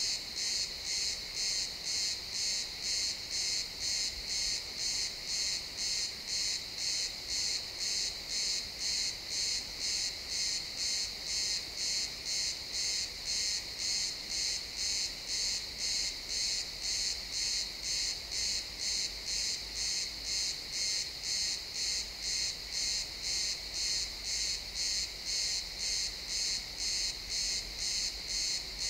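Crickets chirping in chorus: a high-pitched trill that swells and fades evenly, just under twice a second.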